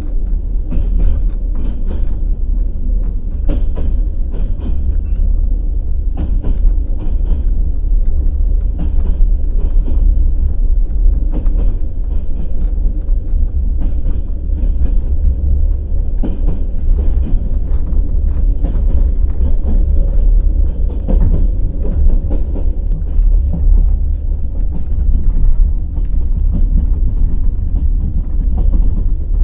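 Passenger train rolling, a steady heavy rumble with irregular clicks and knocks of the wheels over rail joints and switches.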